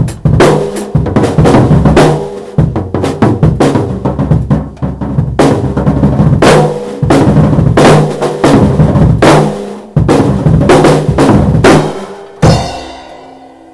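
Drum kit played loudly in fast, irregular hits of bass drum, snare and cymbals. The playing stops near the end and a last ring fades out.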